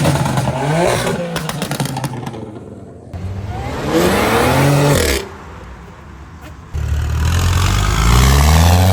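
Car engines revving and accelerating hard in short clips. Revs climb near the start and die away. A second rev rises and cuts off abruptly about five seconds in. Then, about seven seconds in, a loud full-throttle pull starts suddenly and climbs steadily in pitch.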